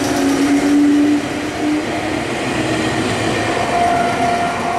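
Meitetsu 5000-series electric train pulling out of the station with a rumble of wheels on rails and a rising motor whine that fades out. Near the end a level crossing alarm starts ringing with a steady tone.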